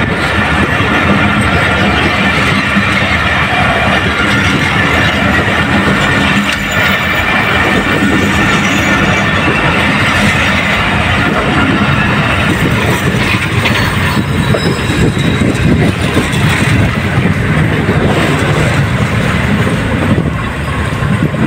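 Pakistan Railways express passenger coaches rolling past close by as the train pulls out of the station. The wheels clatter on the rails under a steady high-pitched squeal, and the level eases slightly as the last coach goes by near the end.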